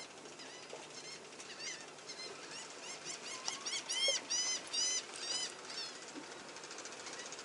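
Birds calling: a string of short, arched chirps, sparse at first, then a quick, loud run between about three and five and a half seconds in before thinning out again.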